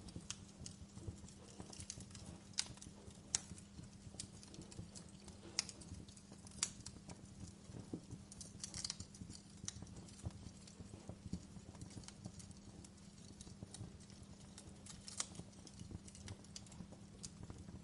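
Wood fire in a fireplace crackling, with irregular sharp pops over a low steady hum.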